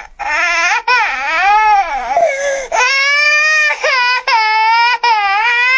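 A pet talking bird mimicking a crying baby: a string of about six wailing cries that waver up and down in pitch, several held for about a second.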